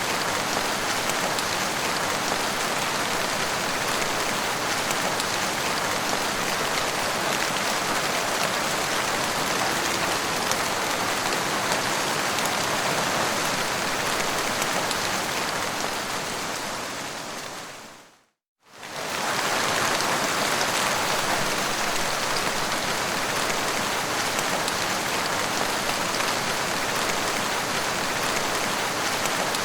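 Steady rain, a dense even hiss with many individual drop hits. About 16 seconds in it fades away to complete silence for a moment, then fades straight back up to the same level, as at a loop point in the recording.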